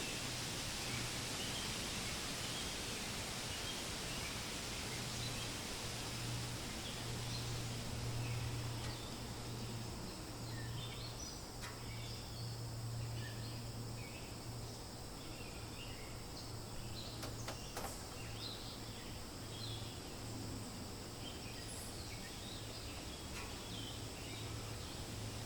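Wind rustling through forest leaves in a steady hiss, with many short bird chirps from about ten seconds in. A low steady hum runs underneath.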